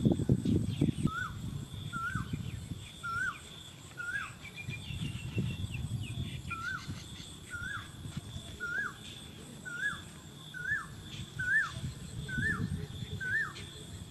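A bird calling the same short chirp over and over, each note rising then dropping, about once every three-quarters of a second, with a break of a couple of seconds partway through. Low muffled noise comes and goes underneath.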